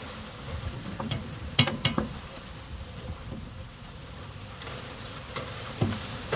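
Hand tools working on the car's front suspension: a few light clicks and knocks, about a second and a half and two seconds in and again near the end, over a low steady hum.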